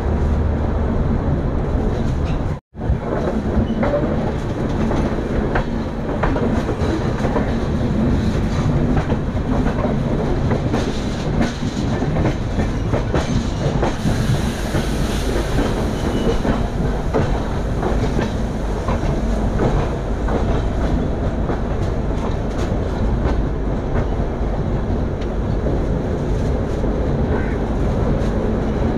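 Moving passenger train: the coach's steady running rumble, with the wheels clicking over rail joints all through.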